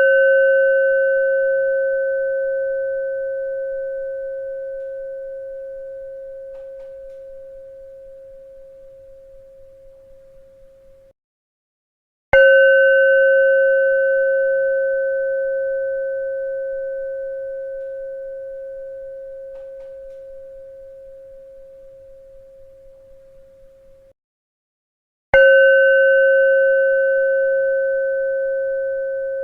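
A bell struck and left to ring: a clear, steady tone with a few higher overtones that fades slowly, then cuts off suddenly. A ring is already sounding at the start, and new strikes come twice, about thirteen seconds apart.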